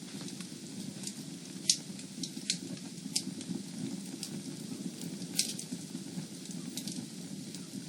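Fire in a fireplace burning with a steady low rush and scattered crackles. Several sharp pops stand out, the loudest about a second and a half in.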